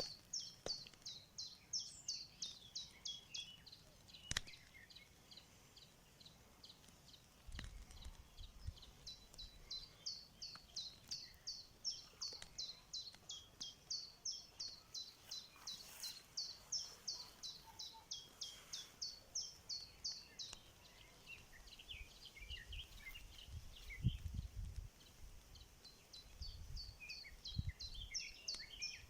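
A small bird chirping over and over, short high notes at about two or three a second, pausing for a few seconds about two-thirds of the way through and then starting again. Now and then there is a faint click or a low rumble.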